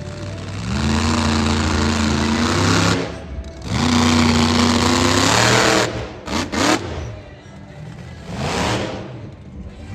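Monster truck engine revving hard. Two long throttle pulls of about two seconds each climb in pitch and then hold. A few quick throttle blips follow, then another short rev near the end.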